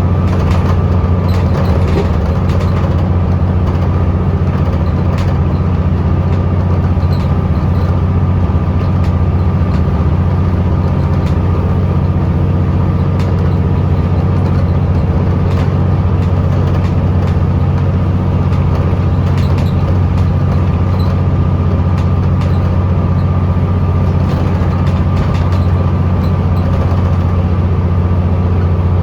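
Scania L94UB bus's 9-litre five-cylinder diesel engine, heard from inside the bus, running with a steady low drone that holds at one pitch. Scattered light clicks and rattles sit on top.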